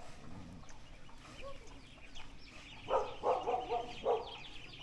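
Farmyard poultry calling: a quick run of short calls about three seconds in and another near four seconds, over a steady stream of high, rapid chirps.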